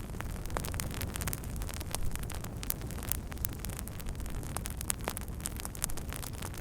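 Wood fire crackling, with many sharp pops and snaps over a steady low rush of burning.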